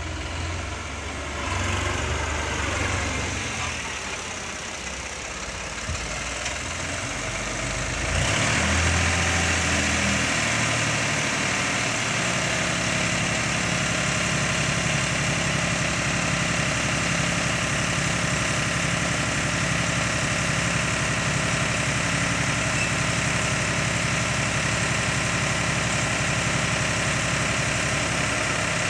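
Mahindra tractor's diesel engine running, uneven for the first several seconds, then louder and idling steadily from about eight seconds in.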